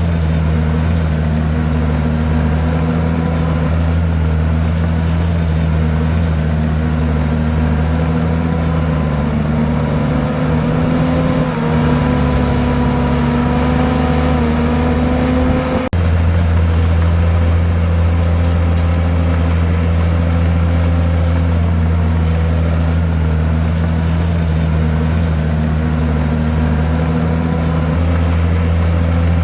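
Komatsu bulldozer's diesel engine running steadily. Its pitch climbs a little in the middle, then the sound changes abruptly about halfway through and the engine carries on steadily.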